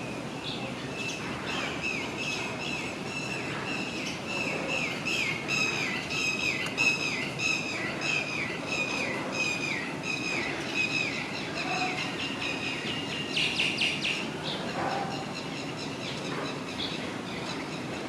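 Green bee-eater calling: a long run of short, falling notes, about two a second, then a quick rattle of notes about two-thirds of the way in, over a steady outdoor hiss.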